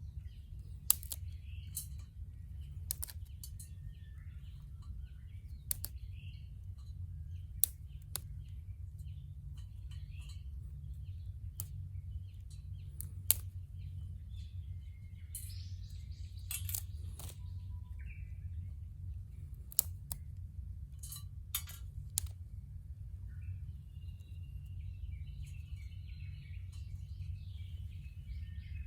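Wood burning in a small homemade fire pit, crackling with scattered sharp pops at irregular moments over a steady low rumble. Birds chirp faintly at times.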